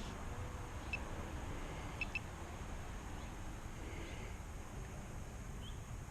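Faint outdoor background: a steady low rumble with a few short, high chirps about a second in, a pair around two seconds, and one near the end.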